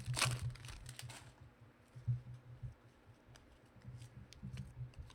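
A brief rustle in the first second, then scattered light clicks, over a low steady hum.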